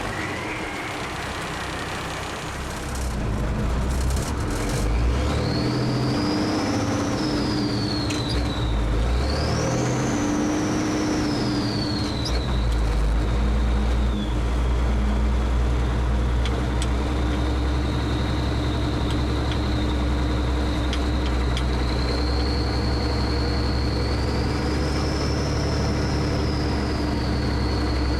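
M52A2 6x6 military truck's six-cylinder multifuel turbo-diesel engine pulling under load, louder from about 3 s in, with a high whine that rises and falls with engine speed several times before settling to a near-steady pitch.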